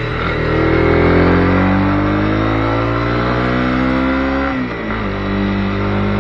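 Honda CB250R's single-cylinder engine pulling under throttle, its pitch rising steadily for about four seconds. Near the end the pitch drops sharply, then holds steady.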